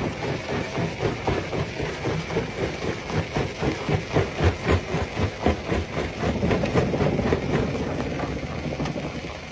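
Jaw-type stone crusher running, with rocks knocking and cracking in rapid, uneven knocks as they are broken into gravel. The sound fades away near the end.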